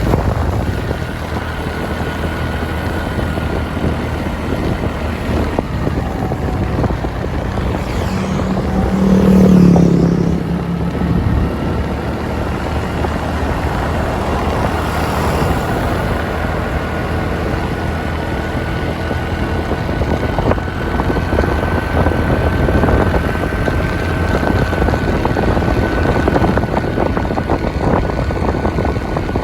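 Motorbike engine running steadily on the move, with wind and road noise. A louder, lower engine sound swells briefly about nine seconds in.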